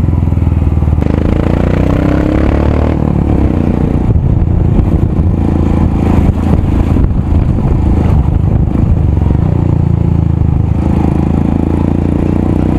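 Royal Enfield Himalayan's single-cylinder engine running loud through an aftermarket exhaust while riding. The note rises as it revs up about a second in, then rises and falls with the throttle.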